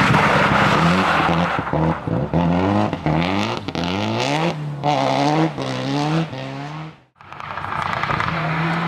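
Rally car engine revving hard, its pitch climbing and breaking off again and again in quick succession as the throttle and gears are worked. About seven seconds in the sound drops out abruptly, then an engine is heard running steadily again.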